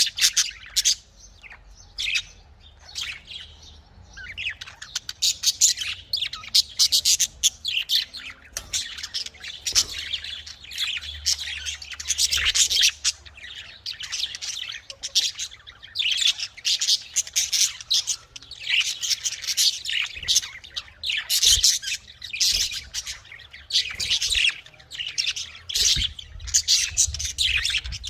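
A group of budgerigars chattering, with many short high chirps and warbles overlapping almost without pause.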